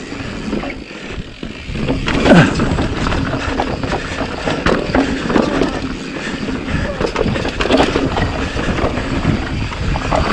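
Mountain bike riding fast down a rough, rocky downhill trail: tyres grinding over loose dirt and rock, with steady clattering and knocking from the bike over the bumps and wind rumble on the helmet-mounted camera's microphone.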